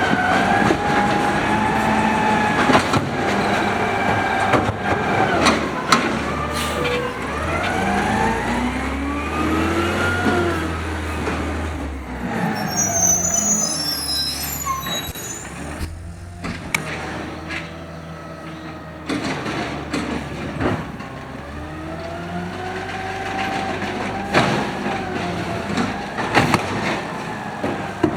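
Automated side loader garbage truck's engine revving up and down again and again to power the hydraulic arm and packer, with sharp knocks and bangs as carts are slammed against the hopper.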